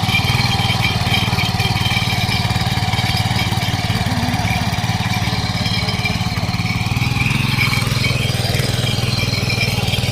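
Small single-cylinder four-stroke petrol engine of a 7 HP air-cooled power weeder (tiller) running steadily at an even speed, with a rapid, regular firing beat.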